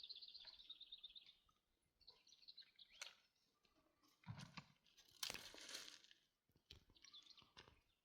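Faint outdoor sounds: a short high trill of a small bird at the start, then scattered soft crunches and crackles, louder about five seconds in.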